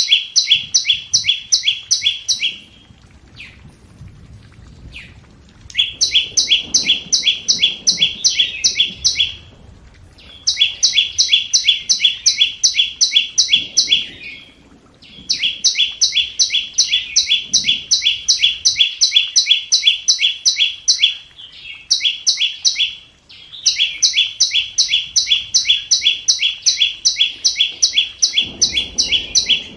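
Scarlet-backed flowerpecker calling: fast runs of sharp, high ticking notes, about four or five a second, in bouts of a few seconds broken by short pauses. It is a decoy bird's call, used as a lure to draw wild birds to a trap.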